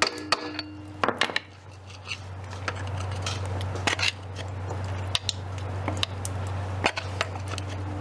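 Metal tools and parts clinking and clattering in scattered knocks, over a steady low hum.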